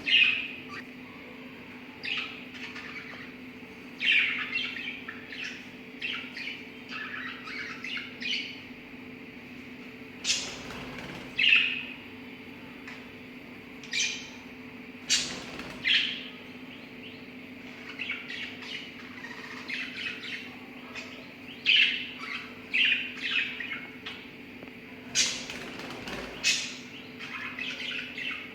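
Pet lovebirds chirping and squawking in quick, irregular bursts, with a sharp shrill call every couple of seconds, over a faint steady hum.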